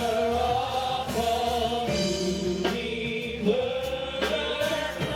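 Gospel worship music: a praise team of singers holding long sung notes over a live band, with regular drum hits.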